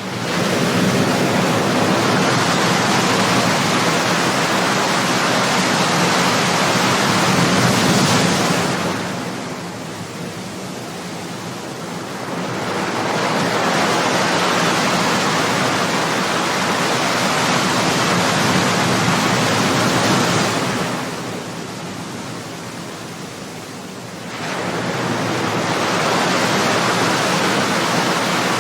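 Ocean surf: waves breaking and washing ashore in a steady rush that swells and eases, with two quieter lulls about twelve seconds apart.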